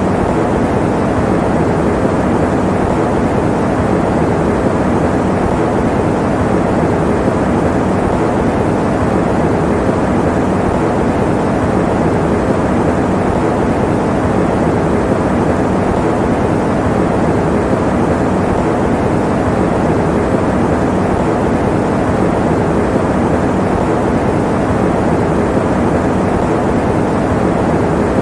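Electric fan running steadily: a constant, even rushing noise, fuller in the lows and mids than in the highs, with no change throughout.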